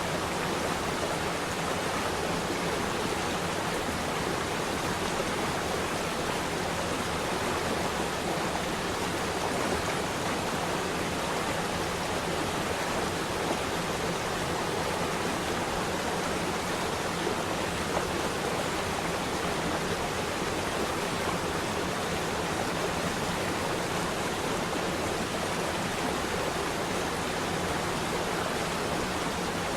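Flowing water rushing steadily, an even, unbroken wash of sound with no distinct splashes or changes.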